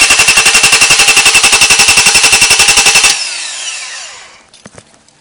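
2001 Honda Accord's engine turning over on the starter motor in a rapid, even beat of about thirteen pulses a second without catching: the engine cranks but won't start. The cranking stops abruptly about three seconds in, followed by a falling whine as the starter spins down.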